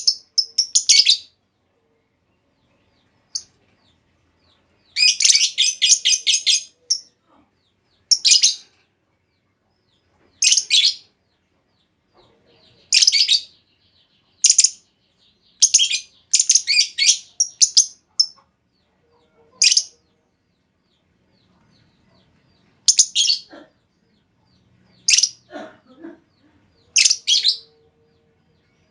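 Female lovebird giving shrill, high chirps in short bursts every couple of seconds. Some bursts are rapid chattering runs of many chirps, with silent pauses between.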